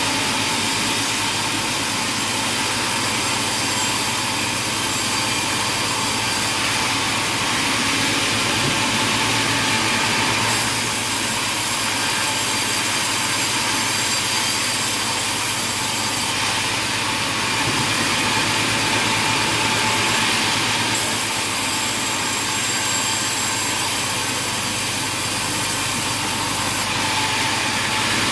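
Sawmill machinery running steadily with a saw cutting wood, a continuous hissing, whining mechanical noise. Its character changes abruptly every few seconds.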